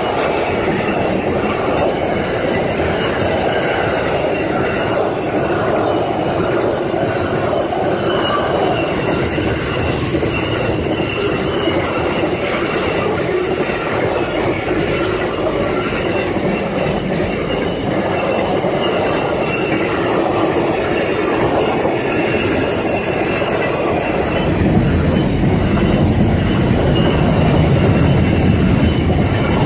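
Wagons of a Pacific National intermodal container freight train rolling past close by: a continuous rumble of steel wheels on the rails with clacking over the track. The low rumble grows louder about three-quarters of the way through.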